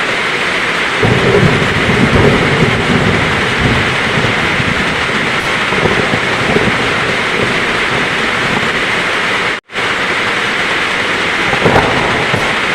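Heavy rain pouring steadily, with thunder rumbling low from about a second in for a few seconds and a shorter rumble near the end. A split-second gap of silence cuts the sound about two-thirds of the way through.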